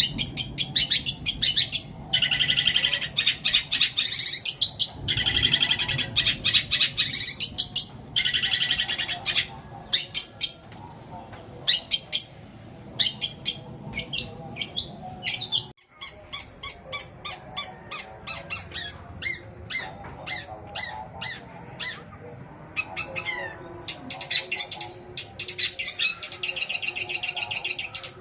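Long-tailed shrike singing a long, fast song of mimicked calls. Rapid sharp ticks and chattering notes alternate with stretches of dense, buzzy trilling.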